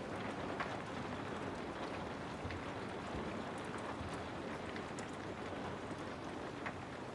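Steady rain with a wood fire crackling: an even hiss of rain with scattered sharp pops and snaps from the burning logs.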